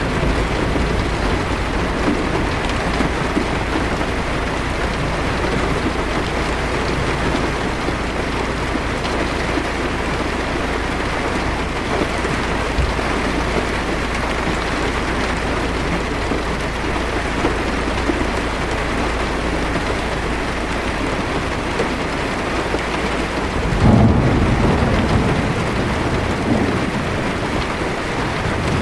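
Heavy rain drumming on a car's windshield and roof, a steady hiss. Near the end a louder low rumble of thunder swells for a few seconds.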